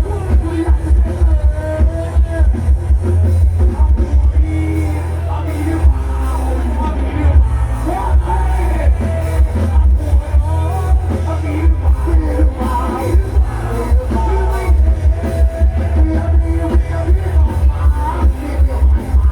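Loud music blaring from a Thai rot hae sound truck's speaker rig: a heavy, pounding bass beat with a wavering melody line over it.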